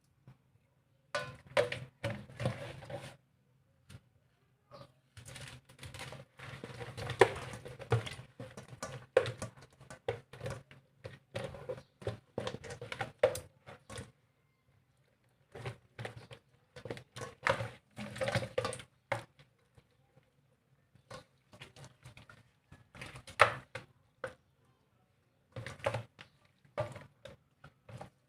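Irregular knocks and clatters from kitchen things being handled, coming in bursts of a few seconds with short pauses between.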